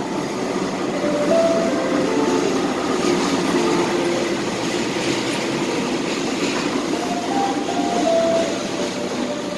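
Passenger train hauled by a CC 206 diesel-electric locomotive arriving along the platform track: the locomotive passes close, then the coaches roll by with steady wheel-on-rail noise.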